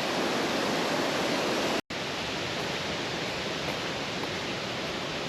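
Waterfall in full flow, a steady rush of falling water. The sound cuts out for an instant just under two seconds in, then resumes slightly quieter.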